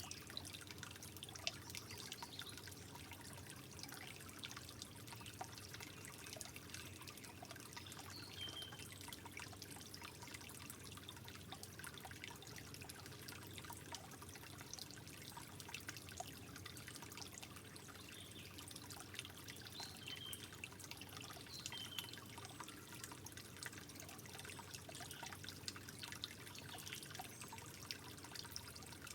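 Soft, steady trickling water, dotted with many small drips and plinking droplets.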